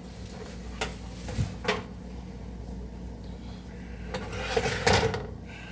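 Kitchen handling of cut potatoes: a few sharp knocks, then a louder clattering, rustling rush about five seconds in, over a steady low hum.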